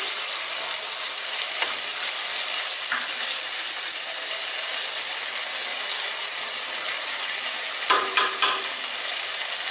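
Masala paste frying in hot oil and ghee, sizzling steadily as yogurt is stirred into it with a wooden spatula.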